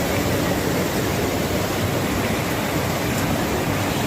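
Floodwater rushing: a steady, even wash of water noise.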